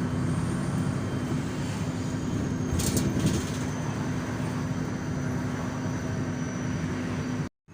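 City bus engine and road noise heard from inside the moving bus: a steady low rumble with a constant hum. A few brief clicks come about three seconds in, and the sound drops out for a moment near the end.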